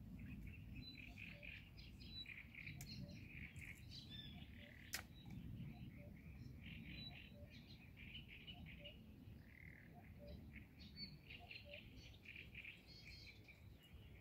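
Small birds chirping and twittering in quick bursts throughout, over a steady low rumble, with a single sharp click about five seconds in.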